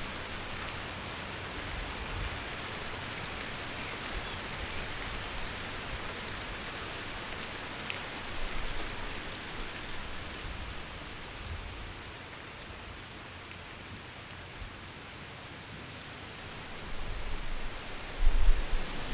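Heavy rain falling steadily, with scattered drop ticks. Near the end a low rumble of thunder starts to build.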